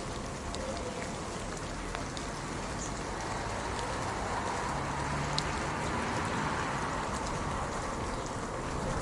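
Steady rain falling, a continuous hiss with many individual drops clicking sharply through it.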